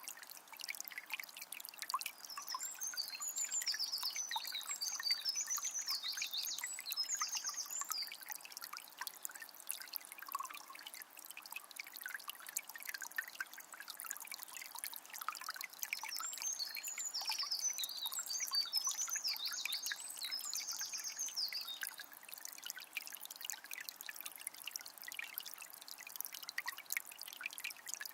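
Small spring trickling and splashing steadily. A bird sings two long phrases of quick high notes, one a few seconds in and one around the middle, and starts a third near the end.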